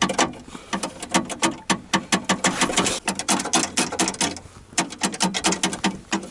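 Door rod inside a VAZ-2114 rear door rattling against the door's bare metal: rapid clicks, several a second, with a short lull about two-thirds of the way through. This loose rod knocking on metal is the cause of the door's rattle and knocking over bumps.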